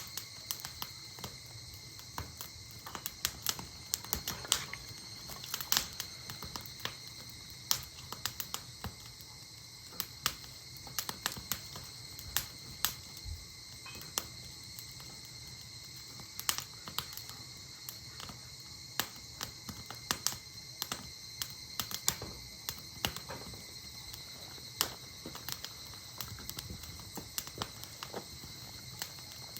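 Firewood burning in an open campfire, crackling with irregular sharp snaps and pops, several a second, over a faint steady high tone.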